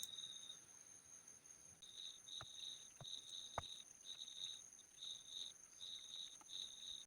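Faint cricket chirping: a high trill that stops early on, then returns about two seconds in as short chirps roughly twice a second. A few light clicks are heard near the middle.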